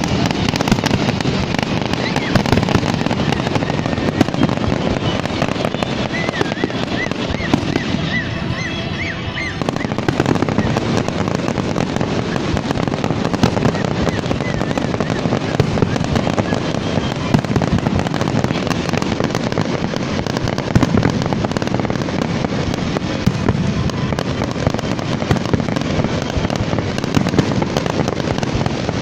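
Fireworks display: a continuous barrage of rapid pops and crackles from many shells bursting together, keeping up an even, loud level throughout.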